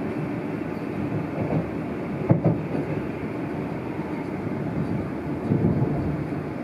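Passenger train running at speed, heard from inside the carriage: a steady rumble of wheels on the rails, with one sharp clunk a little over two seconds in.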